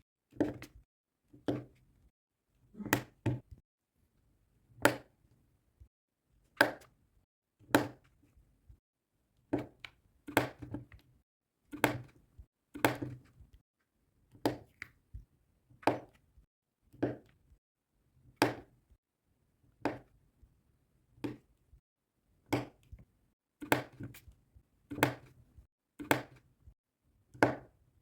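Diamond painting work: a string of sharp taps on a hard surface, each with a short low knock, coming roughly once a second at an uneven pace.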